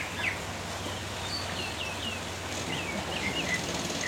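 Small birds chirping: a run of short, quick chirps that each fall in pitch, coming several a second, over steady outdoor background noise.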